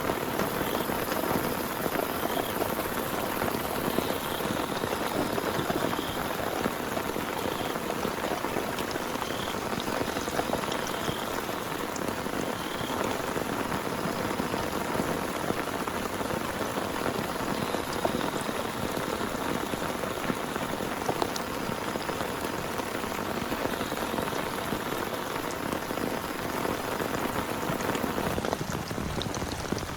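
Heavy rain falling steadily, with many separate drops pattering on a surface.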